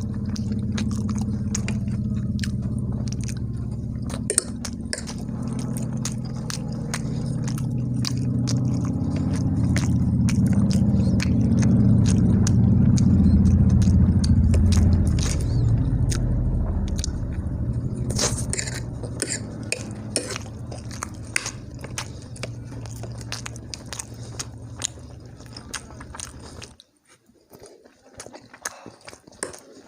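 A person chewing and biting food, with many short wet mouth clicks, over a steady low hum that cuts off suddenly near the end.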